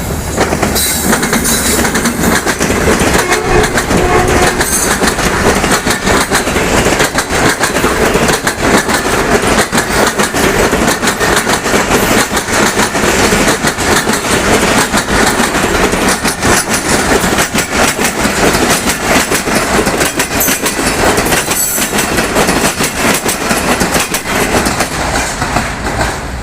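Karakoram Express passenger train running through a station without stopping, at moderate speed. Its coaches pass with a continuous clatter of wheels over the rail joints.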